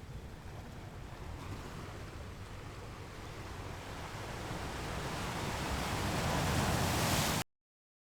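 Sea waves washing in, the surf noise swelling louder over several seconds, then cutting off suddenly near the end.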